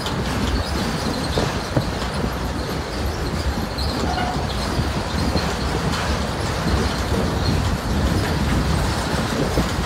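Freight cars of a Conrail train rolling past on a steel bridge: a steady rumble of wheels on rails, with many short clicks and clanks from the wheels and couplers.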